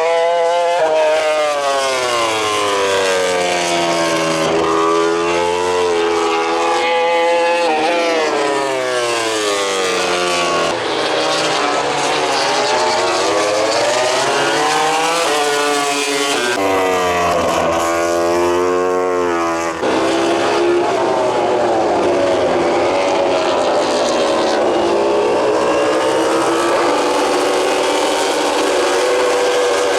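MotoGP racing motorcycle engines running on track, the engine pitch rising and falling again and again with the revs.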